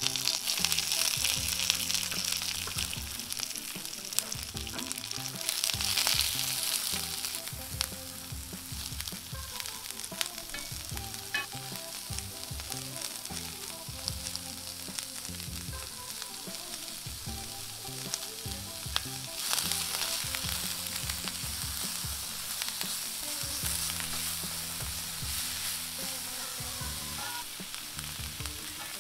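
Sliced onion and green capsicum sizzling in hot oil in a frying pan while being stirred with a silicone spatula. The sizzle swells louder about six seconds in and again around twenty seconds in, with occasional light scrapes of the spatula.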